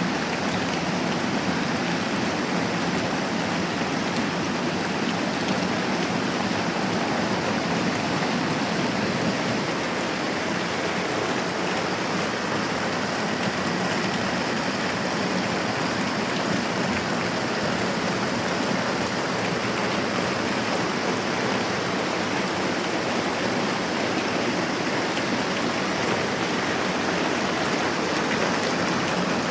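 Moderate rain falling steadily: an even, unbroken hiss.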